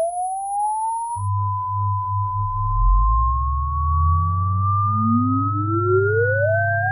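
Electronic sine-wave test tones: one pure tone glides up to about 1 kHz, holds, then rises slowly, while a very high tone stops about a second in. Steady low bass tones come in about a second in, and a second tone sweeps upward from low to mid pitch in the second half.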